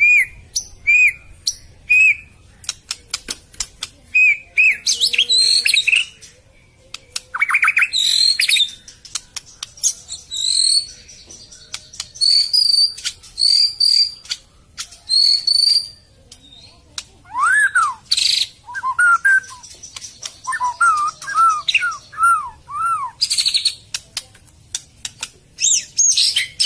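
A murai (magpie-robin) singing: a varied song of clear whistles, chirps and sharp clicking notes in short phrases with brief pauses between them. From about 17 seconds in, a run of lower arching whistles.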